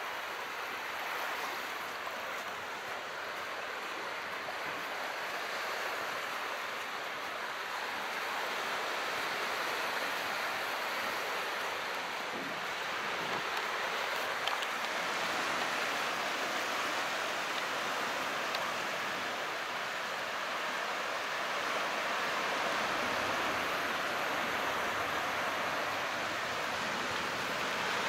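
Calm sea water washing in a steady rush that swells and eases slowly.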